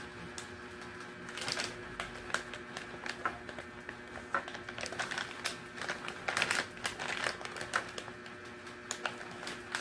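Plastic snack packaging of quail eggs being handled and opened: irregular crinkling and sharp clicks of the wrapper, busiest in the second half.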